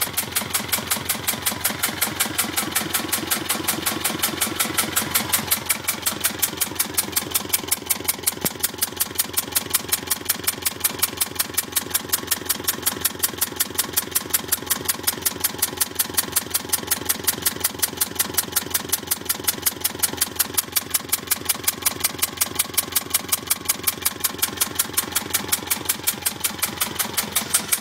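Volvo Penta 2002 two-cylinder marine diesel running steadily at idle, with a sharp, regular tick or knock on every beat. The owner suspects this extra sound is an air leak from an injector.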